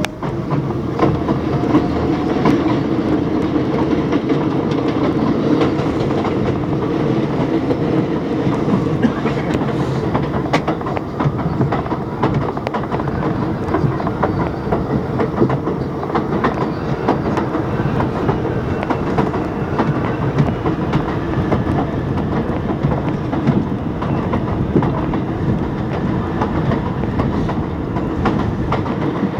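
R62A subway car running along the track: a steady rumble of steel wheels on rail, broken by many short clicks as the wheels pass over rail joints. Near the start a faint motor whine rises in pitch.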